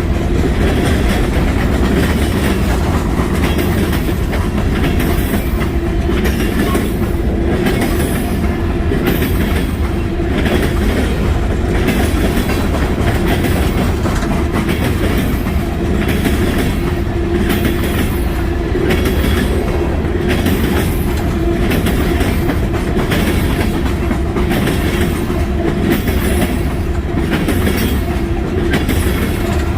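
Freight train cars rolling past steadily, the wheels clacking over the rail joints about once a second over a constant rumble.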